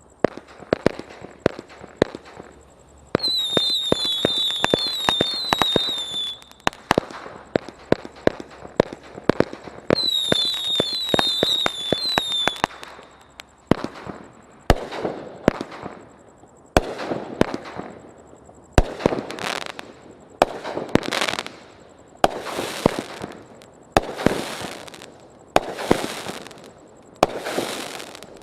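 Brothers Bling Bling 200-gram fireworks cake firing: a rapid string of shots with two spells of shrill whistling. About halfway through it turns to bigger, spaced-out bursts, roughly one every second or two, each with a crackling, sizzling tail.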